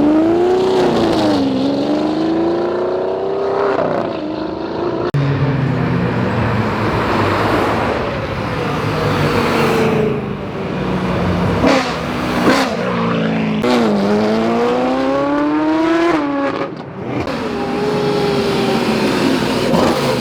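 Several performance cars accelerating hard one after another, their engines revving up through the gears, each rise in pitch broken by a short drop at the shift. A couple of sharp cracks sound about halfway through.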